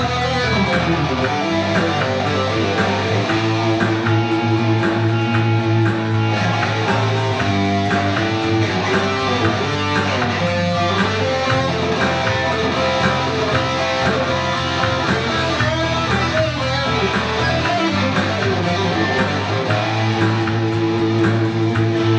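A rock band playing an instrumental passage with no vocals: guitars with bass underneath.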